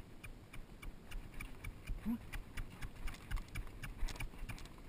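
Unshod horse's hooves clicking and knocking on rocky ground in irregular, uneven steps as it picks its way along.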